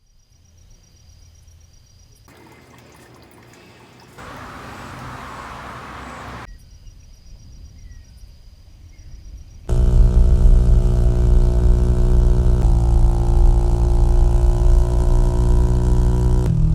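Quiet outdoor ambience with a brief stretch of rushing noise, then, about ten seconds in, a small-displacement motorcycle engine and exhaust come in suddenly and run steadily near idle, with a slight change in tone near the end.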